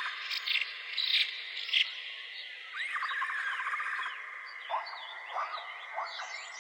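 Nature soundscape of birds chirping in short high notes, with a call that rises and then breaks into a fast rattling trill about every four seconds, over a steady high tone.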